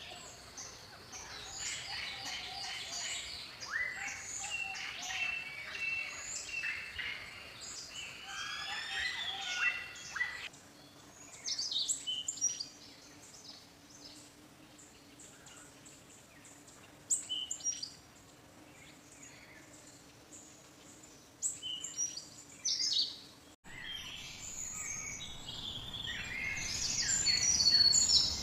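Wild birds singing and calling: overlapping chirps, trills and whistles from several birds. The soundscape changes abruptly twice, as between separate recordings, and a faint steady low hum underlies the middle stretch.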